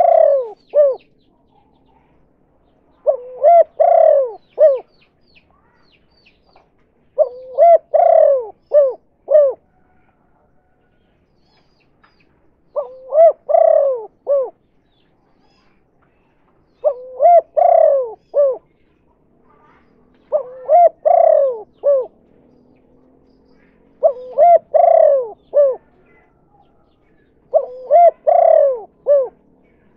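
Spotted dove (tekukur) cooing: a phrase of several short coos, repeated eight times, one about every three and a half to four seconds.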